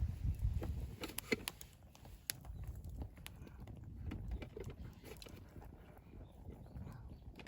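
Wood campfire crackling, with scattered sharp snaps and pops over a low rumble.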